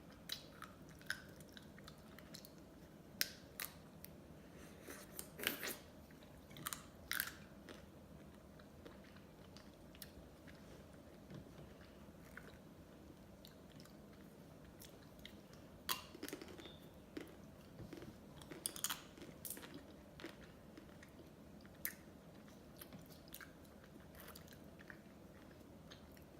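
A person eating ice cream close to the microphone: irregular bites, chewing and sharp mouth clicks, coming in clusters with quieter stretches between.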